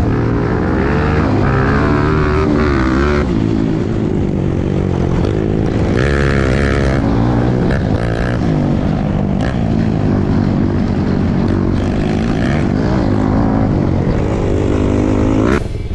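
Trail dirt bike engine revving, its pitch rising and falling again and again as the throttle is worked over rough ground. Just before the end it drops off briefly.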